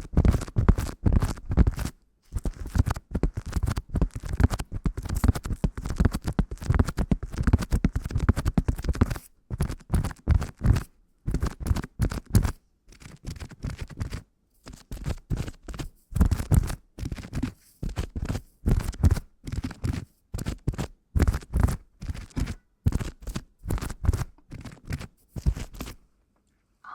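Rapid, close-miked scratching and scraping strokes in runs with short pauses, stopping just before the end.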